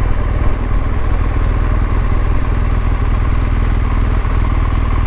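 BMW R1200 GS motorcycle's flat-twin boxer engine running steadily at an even pitch, with no revving.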